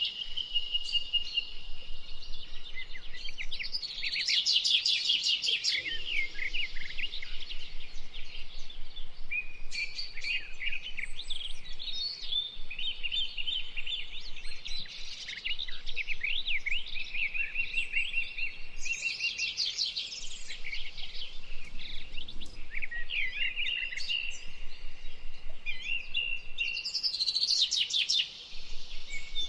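Several songbirds singing at once in an early spring chorus: overlapping whistled phrases and chirps, broken by rapid trills a second or so long several times.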